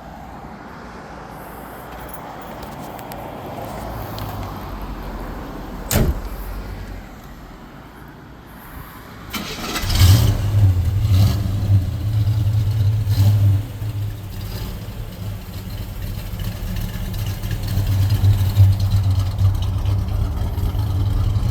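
Chevrolet 350 small-block V8 in a 1969 Chevy stepside pickup cranking and catching about nine to ten seconds in, then idling steadily and loudly to the end. A single sharp knock comes about six seconds in, before the start.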